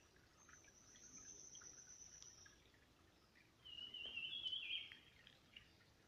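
Wild birds singing in woodland: a thin, very high note held for about two seconds, then a louder phrase of several quick stepped notes a little past the middle, lasting about a second.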